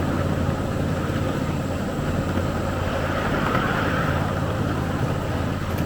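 Steady low rumble of a small ride-on train running along its track.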